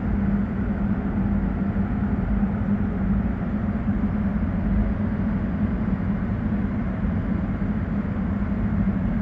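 Four-stroke engine cutaway model running, a steady mechanical hum with low rumble.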